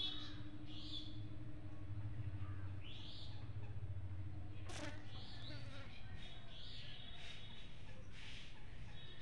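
Birds chirping, short high calls repeating every second or so, over a steady low hum. About halfway there is a single sharp click, and a fainter, higher steady tone stops with it.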